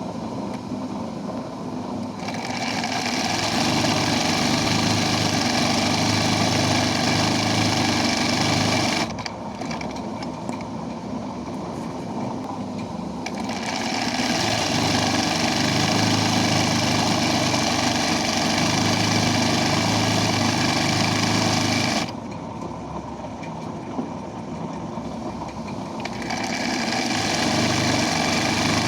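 Embroidery machine running steadily. Three times a higher-pitched, louder whirring comes in and lasts several seconds each, dropping back in between to a lower, quieter hum.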